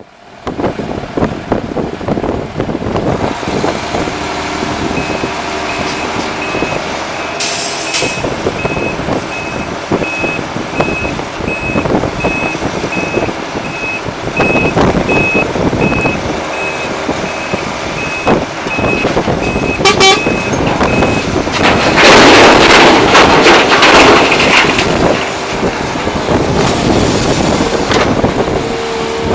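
Heavy diesel machinery running at an earthworks loading site: excavator and dump truck engines, with a reversing beeper sounding evenly for about fifteen seconds. A louder, rough noisy stretch follows about three quarters of the way through.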